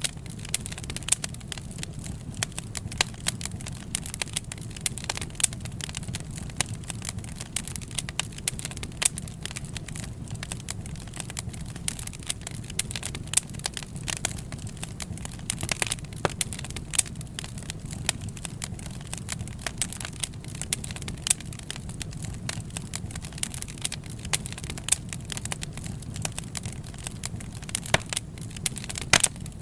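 Wood fire crackling, with frequent irregular sharp pops and snaps over a low steady rumble of the flames.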